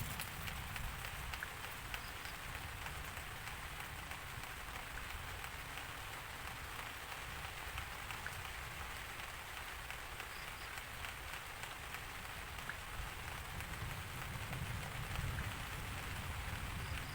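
Steady rain falling, a dense even hiss sprinkled with individual drop ticks, over a low rumble that stays steady throughout.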